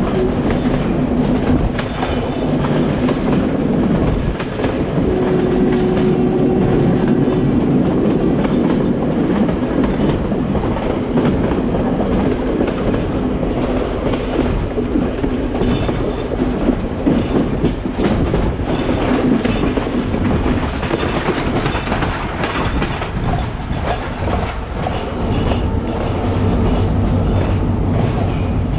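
Passenger train running, heard from an open carriage window: a steady rumble of wheels with clickety-clack over the rail joints. A brief steady tone sounds about five seconds in.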